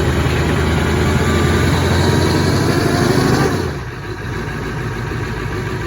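Ford 7.3 L Power Stroke V8 turbodiesel running steadily just after a cold start at 20 degrees, on weak batteries with only half its glow plugs working. About three and a half seconds in, the engine note drops and turns to a lower, rougher rumble.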